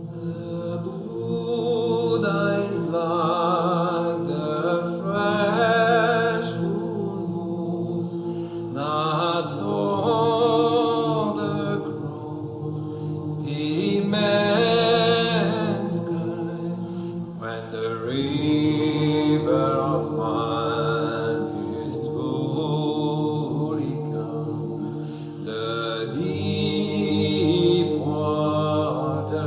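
Background music of chanted singing over a steady low drone, in the manner of a devotional mantra.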